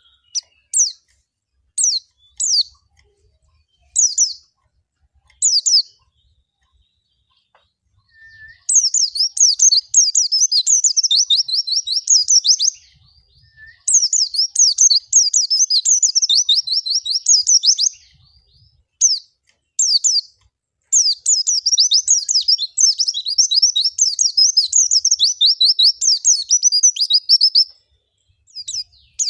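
White-eye (pleci) song: a few short high chirps, then long, fast twittering phrases of rapid high notes, the lure song used to prompt caged white-eyes to sing.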